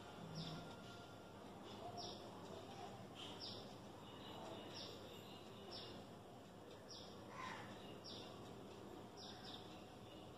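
A bird outside repeating a short, high, falling chirp roughly once a second, faint, over quiet room tone.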